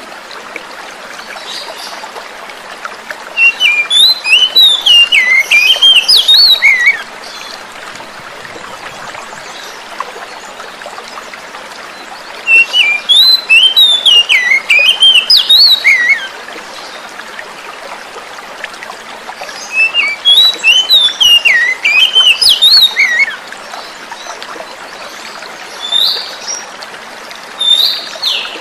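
Oriental magpie-robin (kacer) singing three bursts of rapid, varied whistled phrases, each about three seconds long, over a steady hiss of flowing water. Two short calls come near the end.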